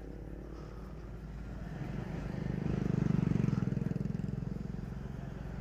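Motor vehicle engine running over a steady low rumble; it grows louder about two seconds in, then fades again.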